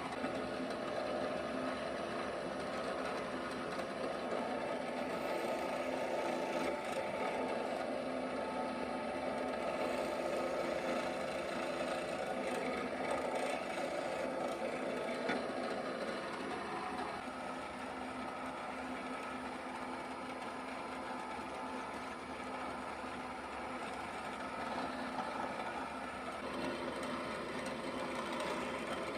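Restored NS12 bench drill press running, its replacement electric motor driven by a frequency converter, with a steady mechanical hum made of several steady tones. A higher part of the sound fades about seventeen seconds in, and the machine keeps running.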